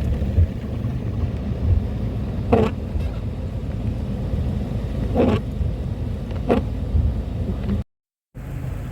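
Steady low rumble of a vehicle driving, with three short, sharper sounds spread through it. The sound cuts out completely for a moment near the end.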